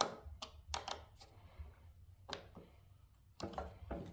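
Scattered light metallic clicks and taps of hand tools on the garden tractor's battery cable connections as they are tightened, irregular and a few per second, with a small cluster near the end.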